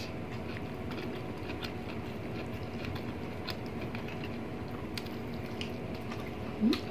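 Eating sounds close to the microphone: soft chewing and faint wet smacking clicks as braised pork pata is eaten by hand, over a steady low room hum. Near the end there is a short rising vocal 'mm'.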